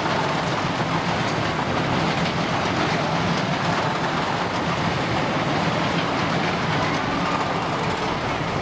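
Steady fairground din: a constant low mechanical hum under an even wash of noise, with no clear single event.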